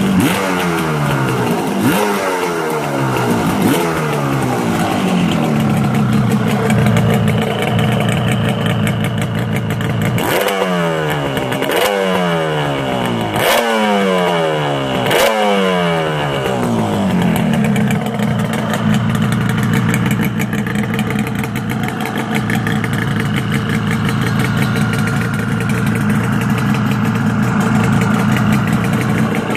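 1986 Yamaha RZ350's two-stroke parallel twin with aftermarket DG expansion-chamber exhausts, running and revved in short blips that fall back to idle: a few in the first seconds, four quick sharp ones about ten to sixteen seconds in, then a steady idle.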